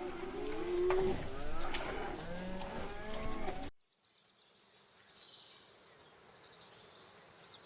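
Several cattle mooing, their drawn-out calls overlapping at different pitches. A little over halfway through the sound cuts off abruptly, leaving a faint outdoor background with thin high chirps.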